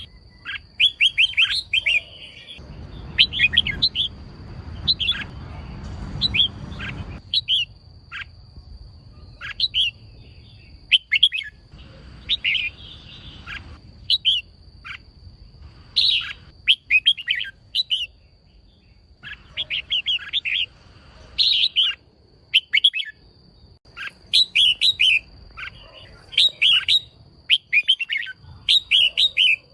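Female red-whiskered bulbul calling in quick bursts of short chirps, the clusters repeating every second or two. A faint steady high tone runs underneath, and a low rumbling noise comes in briefly a few seconds in.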